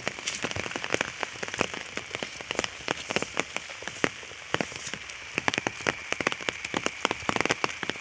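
Steady rain falling, with many sharp, irregular raindrop hits close by.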